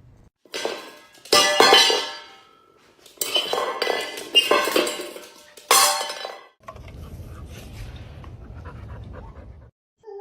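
Hard objects clattering and clinking in four loud bursts, then a low steady hum for about three seconds.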